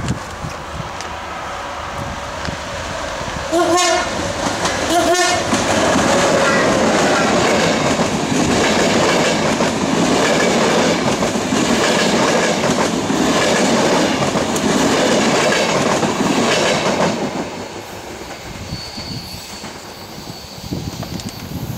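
Passenger train sounds its horn in two short blasts about a second and a half apart, then passes close by with wheels clicking over the rail joints. The passing noise lasts about thirteen seconds and fades as the last coaches go by.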